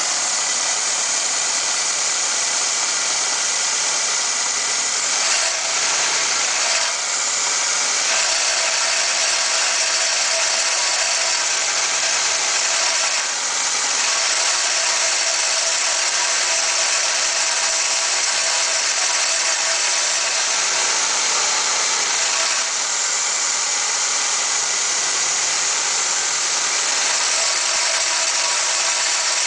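1998 Toyota Camry four-cylinder engine running cold, with a steady rattle: the cold-only rattle that comes up between 1000 and 1500 rpm and goes away once the engine warms up.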